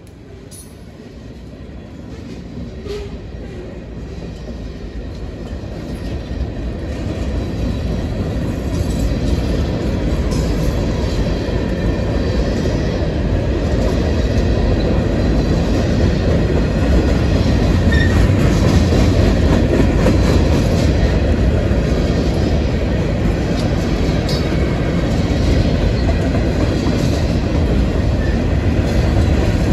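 Freight train of covered hopper cars and gondolas rolling past: a steady low rumble of steel wheels on rail with clickety-clack. It grows louder over about the first ten seconds, then holds steady, with a few faint high squeaks now and then.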